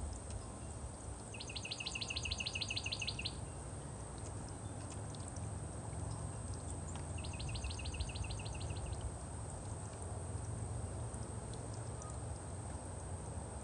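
A songbird singing a rapid trill of evenly repeated high notes, about eight a second and each trill about two seconds long, given twice several seconds apart, over a steady low rumble.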